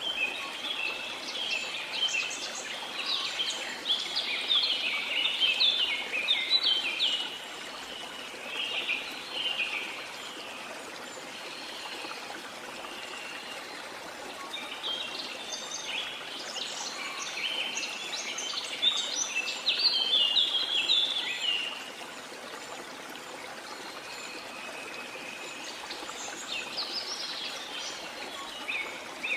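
A waterfall's steady rush of water, with birds singing over it in several bouts of rapid chirping notes. The birdsong is the loudest part, coming and going every few seconds.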